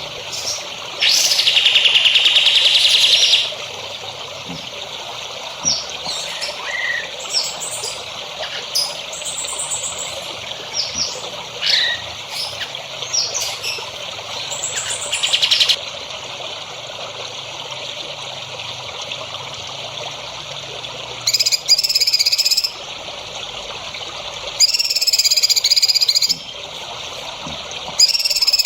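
Songbird calls over a steady trickle of running water: a loud buzzy trill early on, then a string of short sharp chirps, and later several bursts of rapid pulsed calls.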